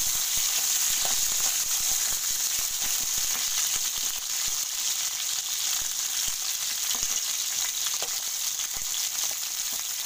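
Pointed gourds (potol) frying in hot mustard oil in a kadai: a steady sizzle, with occasional light scrapes of a spatula turning them.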